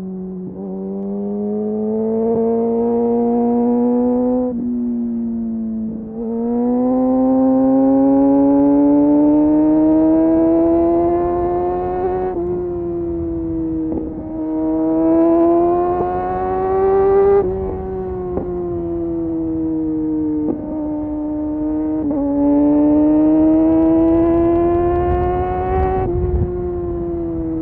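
Kawasaki Ninja with an Arrow exhaust pulling through the gears: the engine note climbs steadily, then breaks off and drops at each of several quick gear changes.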